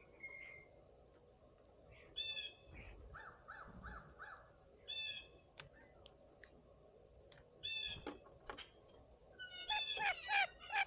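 Blue jays calling: single harsh, down-slurred 'jay' calls every few seconds, a quick run of four shorter notes between them, and a fast series of calls near the end.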